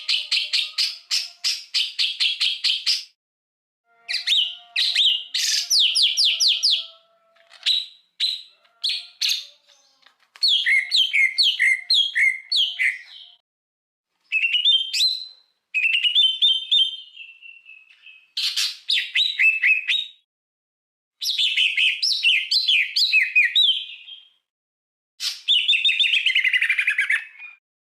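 Recorded songbird song played as a masteran (a tutor recording for teaching caged birds): short phrases of rapid, high chirps and trills, each one to three seconds long, broken by sharp cuts into dead silence.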